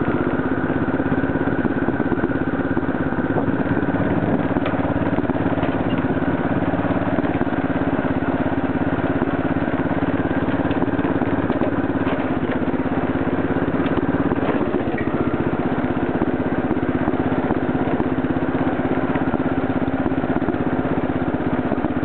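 Wheel Horse garden tractor's 12 hp Kohler single-cylinder engine running steadily while the tractor is driven, with a brief dip in engine pitch about fifteen seconds in.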